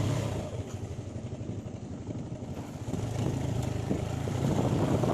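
Motorcycle engine running at low revs, getting louder about three seconds in as the bike moves off.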